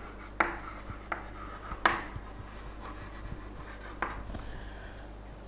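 Four light clicks or taps, spread apart, over a steady low room hum.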